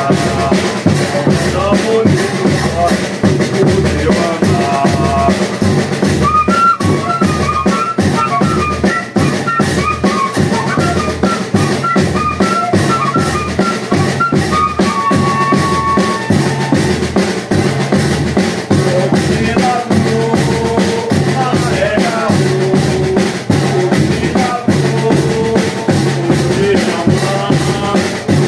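Banda de pífanos playing: fifes carry a high melody over a steady beat of bass drum and snare drum.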